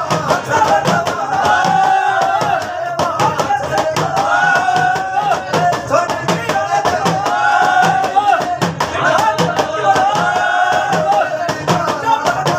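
Live Indian folk devotional music from a singing party: melodic phrases repeating every couple of seconds over a steady drum beat and rapid clicking percussion.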